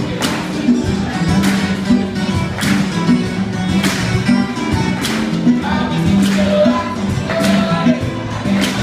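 Cuban band music with a bass line and a steady percussion beat, a little under two strokes a second, with plucked guitar.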